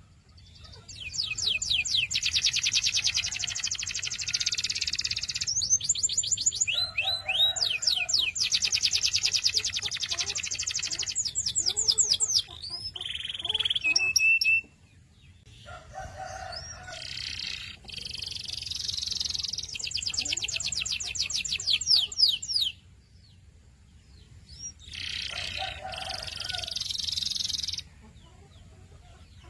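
Canary singing in phrases of fast trilled rolls, rapid runs of repeated high notes, with short pauses between about five phrases.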